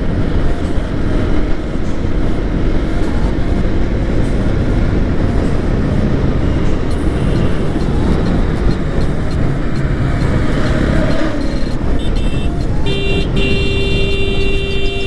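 Bajaj Pulsar NS200 motorcycle riding along, its engine and the road and wind noise making a steady rumble. Near the end a vehicle horn sounds in one steady blast of about three seconds, with a brief break at its start.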